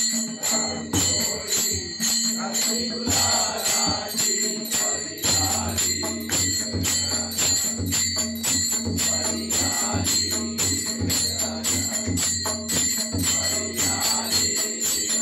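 Bhajan music: small metal hand cymbals struck in a steady rhythm, their ringing carrying over a sustained low drone.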